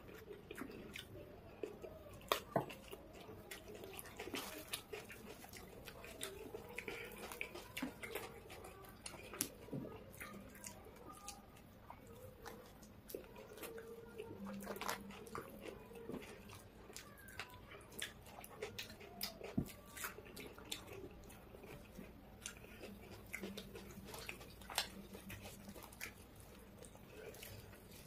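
Two people eating pav bhaji by hand: faint chewing and small wet mouth sounds, with scattered short clicks and smacks as the soft buns are torn and dipped.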